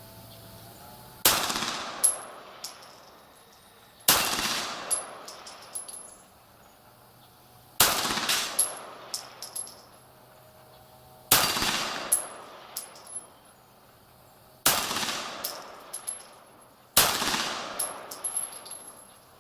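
Six single 9 mm pistol shots from a Beretta 92G Elite Compact, fired slowly a few seconds apart. Each shot is followed by a few fainter sharp knocks and a brief high ring.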